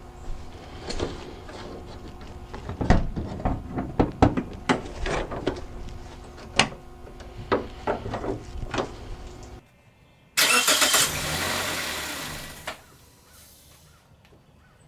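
2005 Toyota Matrix starter clicking repeatedly and irregularly without cranking the engine, a no-start symptom repaired here with new starter brushes. After an abrupt break, a loud steady rush lasts about two seconds and then fades.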